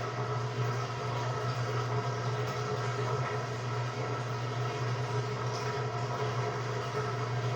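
Samsung WA45T3200AW top-load impeller washing machine running with a steady motor hum and a few steady higher tones.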